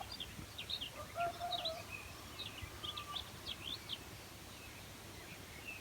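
Small birds chirping and singing, with many short, quick high chirps over the first four seconds and a few brief held notes lower down, over a faint outdoor background hiss.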